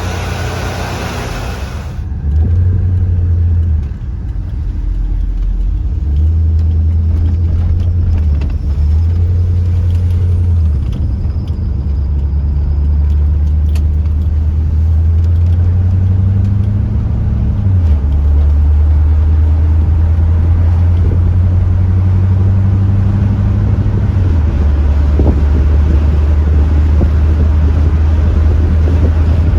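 1982 Chevrolet Corvette's Cross-Fire Injection V8 running with the car under way: a loud, deep engine drone whose pitch climbs and then drops suddenly several times, most clearly a little past halfway and again near 24 seconds in.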